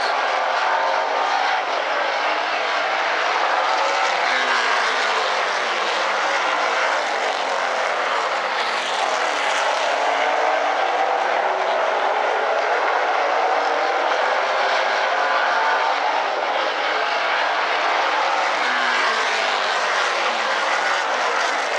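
A pack of super late model stock cars racing on an oval track, their V8 engines running hard. The pitch rises and falls as cars pass and throttle through the turns.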